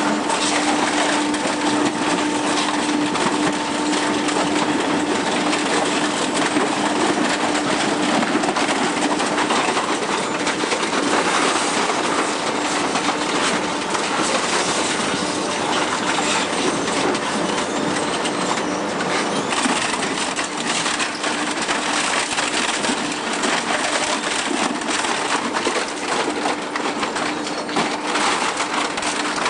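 Saturn 62-40HT dual-shaft shredder grinding up vacuum cleaners: a continuous dense crunching and cracking of plastic and metal being torn apart, over the machine's steady hum.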